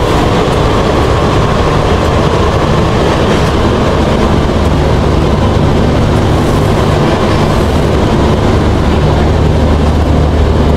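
Train running noise heard from inside a vista dome passenger coach: a steady rumble and rattle with a strong low hum that grows stronger about halfway through and again near the end, as the train runs into a tunnel.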